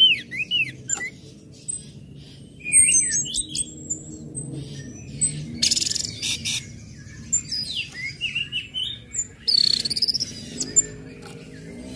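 Orange-headed thrush singing a varied run of quick chirps, whistled notes and sweeping up-and-down glides, with a couple of harsh buzzy rattles a few seconds apart.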